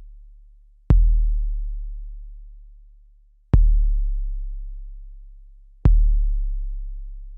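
A deep kick drum sample played back from an Akai MPC sampler: three hits a little over two seconds apart, each a sharp click followed by a low boom that slowly dies away.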